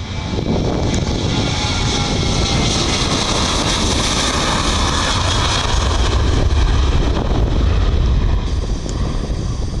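Boeing 737-800 jet with CFM56 turbofan engines passing the airfield, a steady jet roar with a whine that slowly drops in pitch as it goes by and a deep rumble growing toward the end.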